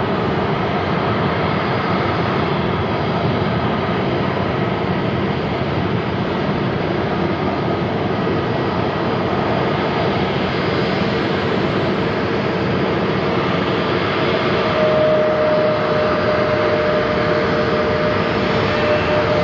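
Airbus A321neo's CFM LEAP-1A jet engines running, a steady noise with faint whining tones; a clearer steady whine comes in about fifteen seconds in as the sound grows slightly louder.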